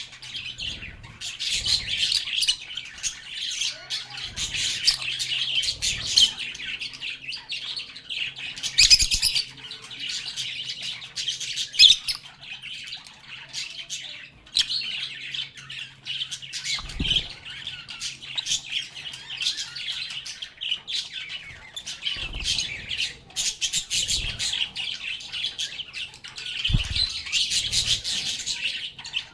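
A group of lovebirds chirping, squawking and chattering without a break in shrill, rapid calls, with a few soft low thumps mixed in.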